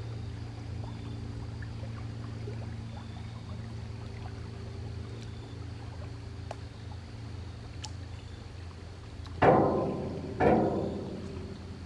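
Water lapping and trickling at a lake shore over a steady low hum. Two louder splashes come about nine and ten seconds in, each fading away over about a second.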